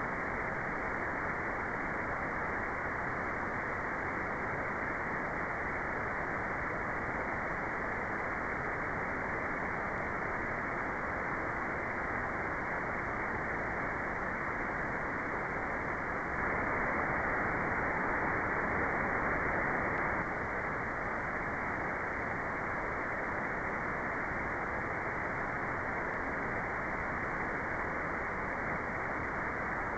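Steady white noise for meditation: an even, unbroken hiss with the treble cut off, so it sounds muffled. It swells slightly for a few seconds just past halfway, then settles back.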